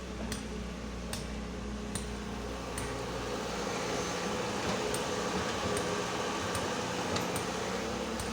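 Excavator's diesel engine running steadily, with faint clicks repeating a little more than once a second. The low note changes about halfway through as the sound grows slightly louder.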